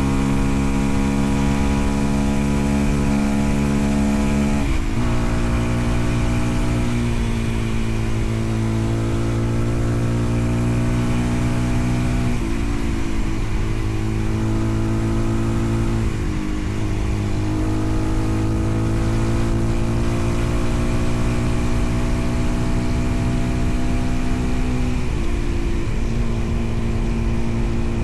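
Motorcycle engine running under way, its pitch climbing slowly and then dropping sharply four times, as at gear changes.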